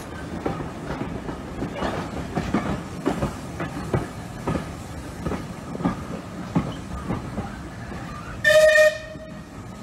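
Railway carriage rolling slowly through pointwork, its wheels clacking irregularly over rail joints and crossings over a steady rumble. About eight and a half seconds in, a locomotive whistle gives one short, loud blast of about half a second.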